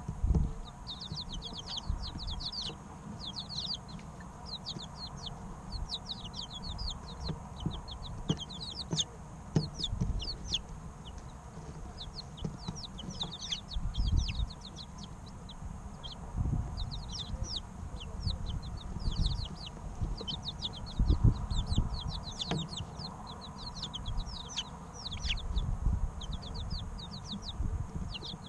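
A group of three-week-old chickens chirping continuously, many short, quick high peeps in rapid clusters. Dull low thumps break in now and then, the loudest about a second in, around halfway through and about three quarters of the way through.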